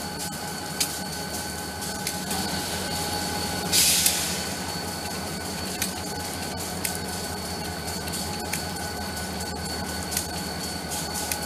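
New England Central Railroad freight train's diesel locomotives running slowly past, a steady engine rumble with a thin steady whine over it and sharp clicks now and then from the wheels. A short burst of hiss about four seconds in.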